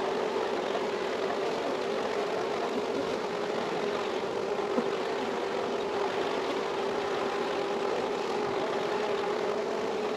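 A mass of honeybees buzzing: a steady, even drone.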